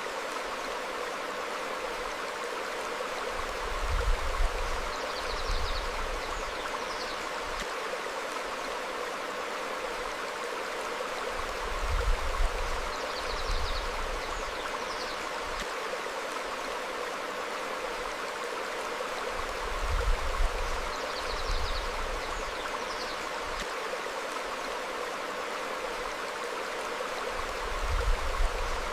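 Stream flowing steadily over rocks, with a low rumble swelling about every eight seconds and faint short high bird chirps at the same spacing.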